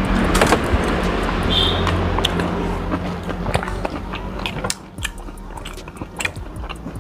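A person chewing and eating a mouthful of chicken soup with rice, with light clicks and scrapes of a metal spoon and fork against a bowl. A steady low background hum drops away about two-thirds of the way through.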